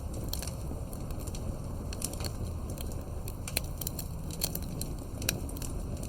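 Fireplace crackling: irregular pops and snaps, several a second, over a steady low rumble.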